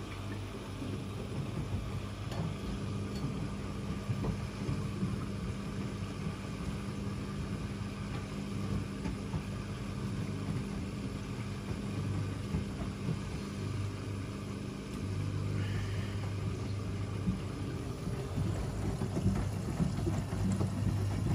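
AEG Öko-Lavamat 88840 and Miele Novotronic W 985 washing machines running an easy-care wash cycle: a steady motor hum and drum rumble, the hum dropping out and returning several times as the drum motion starts and pauses, a little louder near the end.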